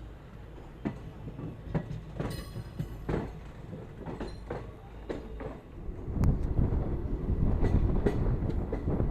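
Train running on rails, with irregular clicks and clatter of the wheels and cars, then a louder, heavier rumble from about six seconds in.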